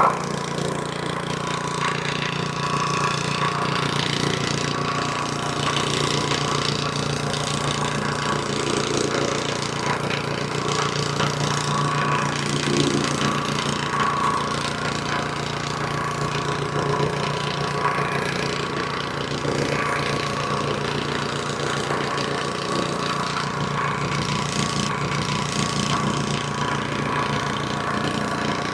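Vibratory plate compactor's 2.8 hp, 78.5cc gas engine running steadily as the plate tamps loose stone.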